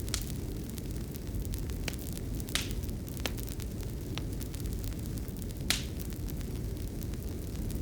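Fireplace fire crackling: a steady low rumble with sharp, irregular pops, one louder pop a little past the middle.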